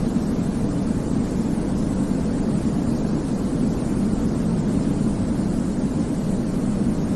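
Steady sleep-aid noise, deep and rumbly, with most of its weight low down and a softer hiss above. It holds the same level throughout, with no changes or events.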